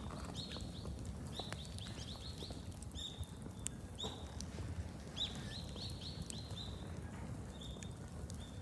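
A bonfire crackling, with scattered sharp pops over a low steady rumble. A bird calls repeatedly through it in short runs of quick high chirps.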